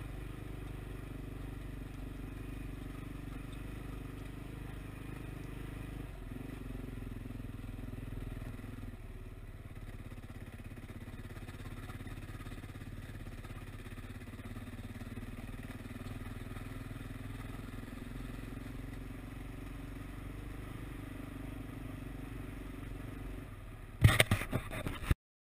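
KTM 530 EXC single-cylinder four-stroke motorcycle engine running steadily under way on a muddy dirt road, as picked up by the bike's onboard camera, with a shift in engine note about six seconds in. Near the end comes a brief burst of loud knocks and rattles, then the sound cuts off suddenly.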